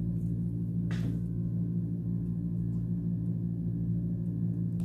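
Steady low background hum of several held tones, like a motor or appliance running, with a brief soft rustle about a second in.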